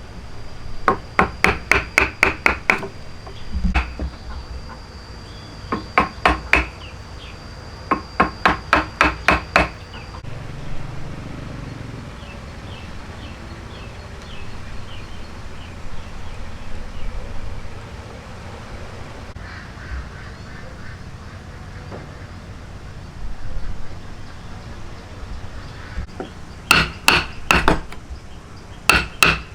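Quick runs of ringing hammer blows, about four or five a second, in several bursts with a quieter stretch of faint scraping ticks in the middle; a last burst comes near the end.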